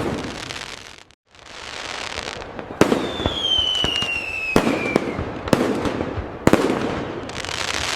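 Fireworks display: about five sharp aerial bangs a second or so apart, with crackling between them and a whistle that glides down in pitch midway.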